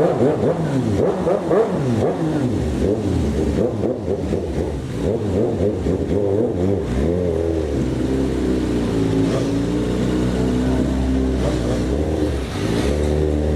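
A motor vehicle's engine revving up and down over and over, then settling into a steadier run with a gently wavering pitch about halfway through.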